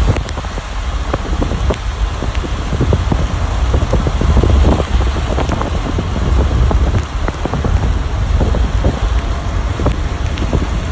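Heavy rain pouring down, with many drops striking close to the microphone over a deep, steady rumble.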